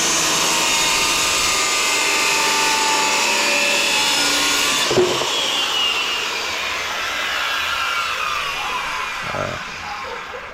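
Electric power saw cutting plywood. About five seconds in it is switched off, and its whine falls in pitch and fades as the blade winds down.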